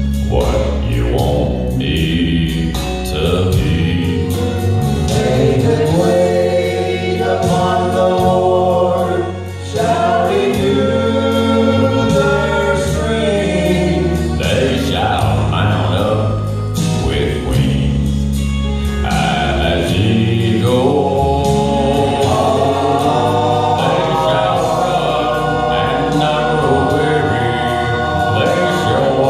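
Gospel song sung by several voices in harmony, with long held notes over a steady bass accompaniment.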